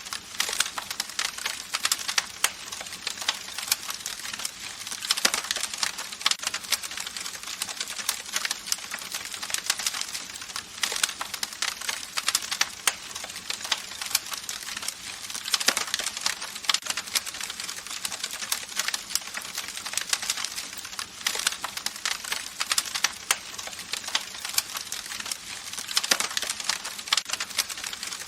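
Campfire crackling: a dense, irregular stream of sharp wood pops and snaps over a steady hiss of burning.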